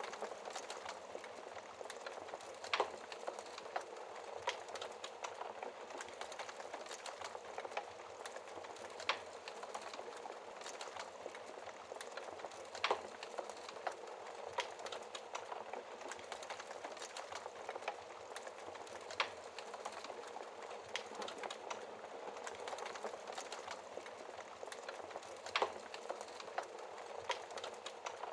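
Wood fire crackling in a fireplace: a steady hiss of small crackles with sharper pops every few seconds.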